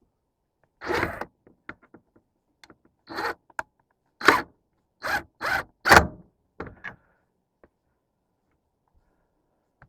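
A series of about six short scraping, rustling handling noises from parts and tools being worked by hand, the loudest packed together from about four to six seconds in, then a few faint ticks.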